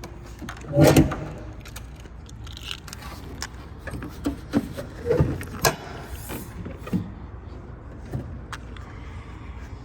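Pickup truck hood being opened: a loud clunk about a second in, then a run of lighter knocks and clicks from the latch and hood as it is raised.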